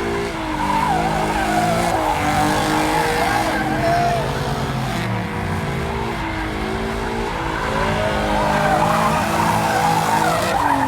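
A car spinning donuts: its engine revs up and down while the tires squeal and skid on the pavement.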